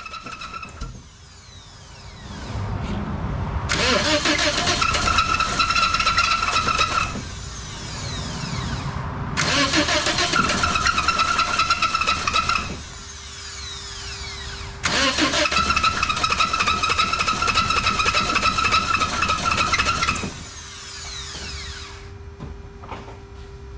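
2006 Toyota Corolla four-cylinder engine being cranked by its starter three times, each for a few seconds, with a steady starter whine, but it never catches. The engine is worn out and has been run on Purple Power degreaser, and it no longer starts.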